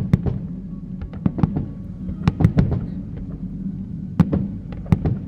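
Fireworks going off: many sharp bangs and cracks in quick, irregular clusters over a steady low hum.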